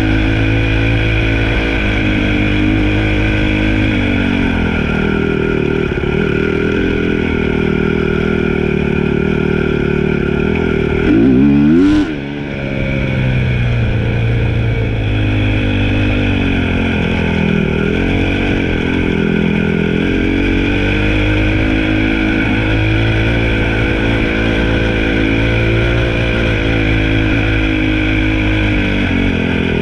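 Dirt bike engine running under way, its revs rising and falling as the rider works the throttle. About twelve seconds in it revs up fast, ends in a sharp crack, and briefly drops in loudness.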